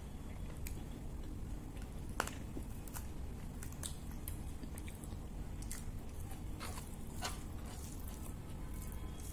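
Close-miked chewing with scattered crisp clicks and small crunches, one sharper click about two seconds in, over a low steady hum.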